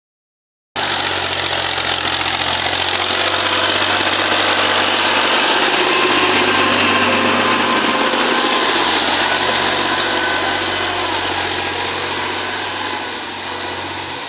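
Tractor engine running hard and loud, swelling over the first several seconds and easing off near the end.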